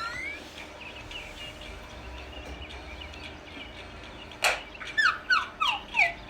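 Faint birds chirping, then a balloon bursts with one sharp pop about four and a half seconds in, followed by a quick run of five falling whistle-like notes.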